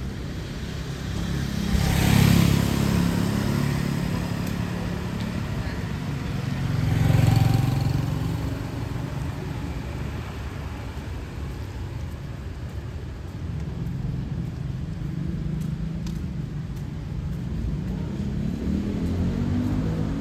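Street traffic on a wet road: two vehicles pass close by, about two and seven seconds in, their engines and the hiss of tyres on wet pavement rising and fading over a steady hum of city traffic. Another engine comes closer near the end.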